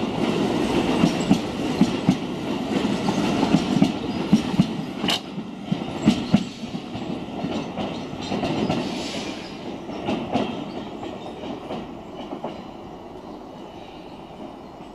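Keio Line electric commuter train pulling away, its wheels clacking over rail joints and points in a steady rhythm. The clacks thin out and the sound fades as the train moves off into the distance.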